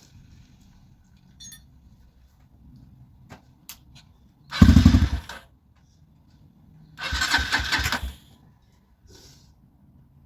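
Honda CG125's electric starter cranking the single-cylinder engine in two short bursts, the second a little longer, without the engine catching. A few faint clicks come before the first burst.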